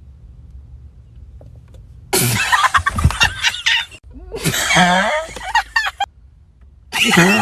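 A person's voice in three loud, shrill, wavering bursts, after a faint low hum.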